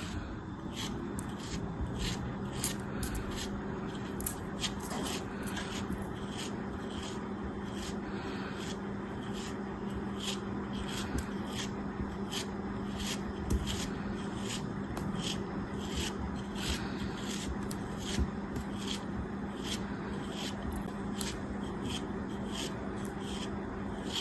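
Crisp scraping strokes, repeated about twice a second, over a steady low hum.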